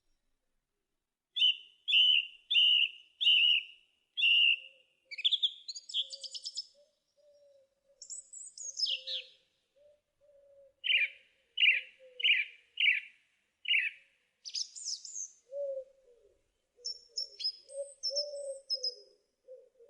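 Forest birds singing: runs of four or five clear, evenly repeated high notes, broken by quicker, rising and falling phrases. A softer low call wavers underneath through much of it.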